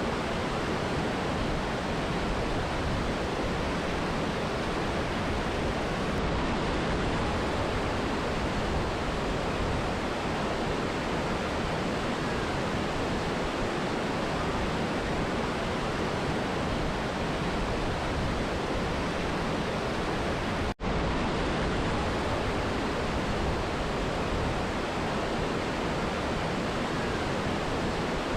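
Mountain river and waterfall rushing in a steady, even roar of water, with a split-second dropout about two-thirds of the way through.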